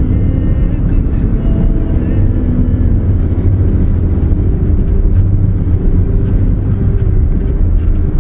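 Steady low rumble of road traffic and a vehicle on the move, with faint short tones above it.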